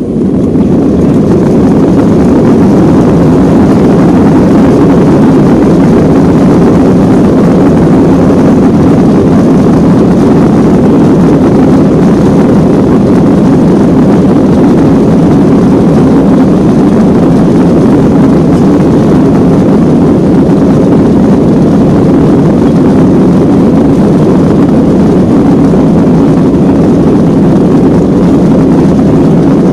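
Boeing 737-800 jet engines at takeoff thrust, heard from inside the cabin: a loud, deep, steady roar that reaches full strength within the first second and then holds unchanged.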